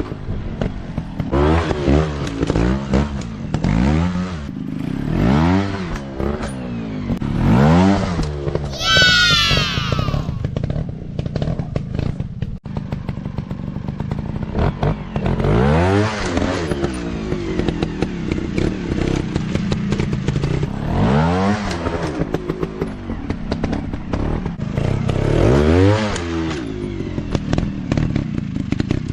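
Off-road dirt bike engines revving up and dropping back over and over, a rev every couple of seconds, as bikes are ridden over rough ground. About nine seconds in, a brief high-pitched whine falls in pitch.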